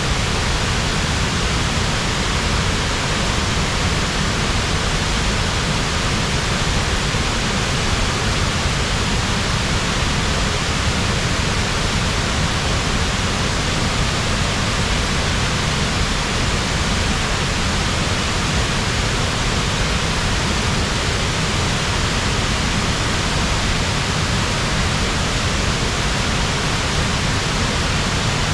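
Tahquamenon's Upper Falls pouring over its ledge: a loud, steady rush of falling water.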